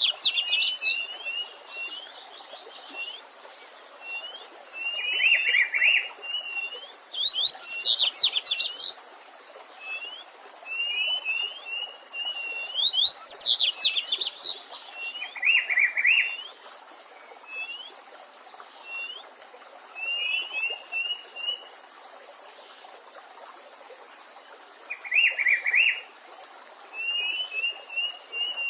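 Several songbirds singing over a faint steady stream hiss. Short twittering phrases repeat every second or two. Three loud bursts of rapid notes come at the start, about eight seconds in and about thirteen seconds in, and shorter, lower buzzy bursts come three times.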